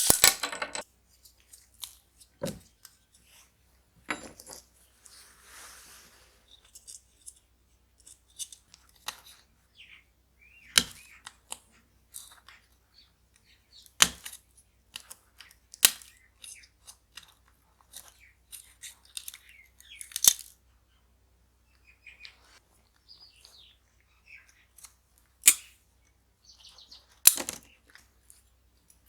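Scattered sharp clicks, taps and short scrapes of small tools and parts being handled on a scale model car, with a brief soft rustle about five seconds in.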